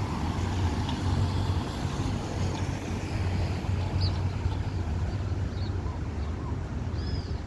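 Boeing 787-9 airliner's jet engines rumbling steadily, with wind noise on the microphone.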